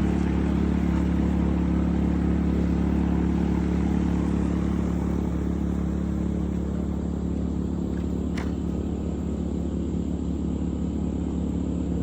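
An engine running steadily at one speed, a constant hum with no revving. A short, thin, high sound cuts through it once, about eight seconds in.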